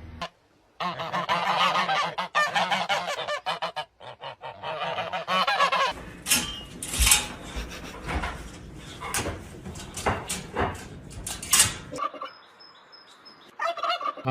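Loud, repeated calls of a large bird, wavering in pitch. From about six seconds in they are mixed with sharp knocks or clicks, and they stop about two seconds before the end.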